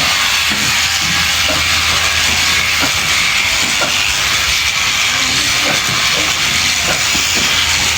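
Electric sheep shears running steadily: a continuous hiss from the cutter with a low motor hum underneath.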